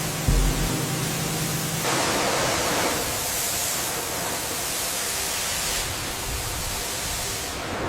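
Steady rushing, hissing noise like churning water, with a single deep boom about a third of a second in. It is the sound-designed underwater rush of a shipwreck's hull being torn from the seabed and hauled up.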